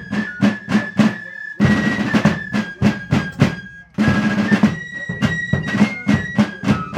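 Fife and drum playing a tune: a shrill fife holding high notes over rapid drum strokes and rolls, with short breaks between phrases.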